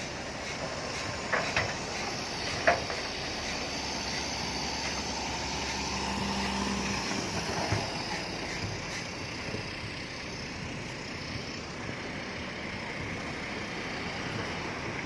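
Heavy earthmoving machinery running with a steady, noisy rumble. A few sharp metallic knocks come about a second and a half in and again near three seconds in.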